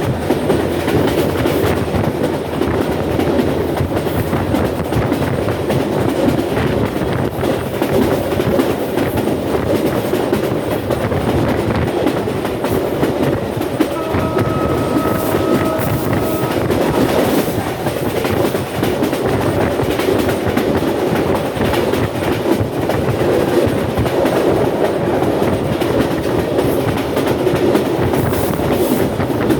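Rangpur Express passenger train running at speed: a loud, steady rumble with wheels clacking over the rail joints. About halfway through, a steady tone sounds faintly for a couple of seconds.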